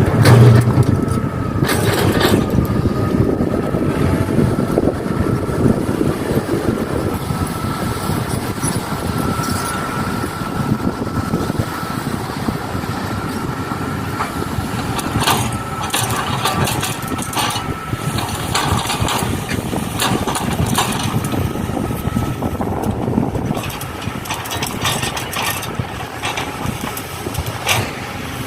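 Excavator working, with a steady mechanical running sound, a thin whine held through most of it, and scattered short knocks and clanks, most of them in the second half.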